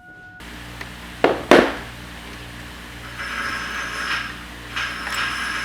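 Hand tools on metal bike parts: two sharp metal clacks about a second in, then a light metallic rattling from about halfway through, over a steady low hum.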